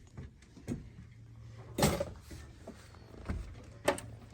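Two sharp knocks about two seconds apart, with a few lighter taps, over a faint steady low hum.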